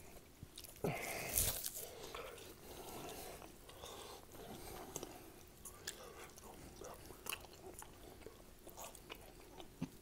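A man biting into and chewing raw ribeye steak close to a mouth-level microphone: wet chewing with scattered small clicks, loudest about a second in.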